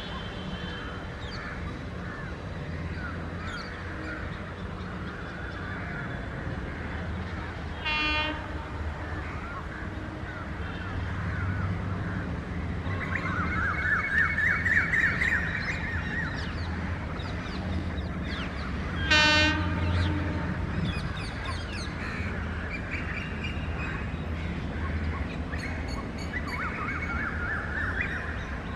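Long diesel-hauled tank-wagon freight train running past with a steady low rumble. Two short horn toots sound, about 8 and 19 seconds in.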